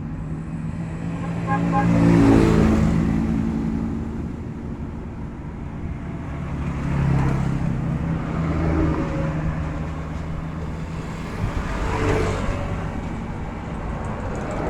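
Motor vehicle engine noise with a steady low hum, swelling louder three times: about two seconds in, around seven seconds and again about twelve seconds in.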